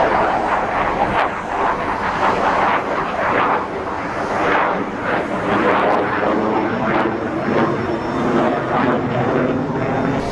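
Aircraft flying past at an air show, a loud continuous engine noise that swells and fades repeatedly.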